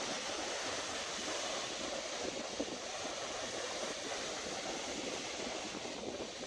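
Ocean surf washing onto the beach, a steady unbroken wash of waves.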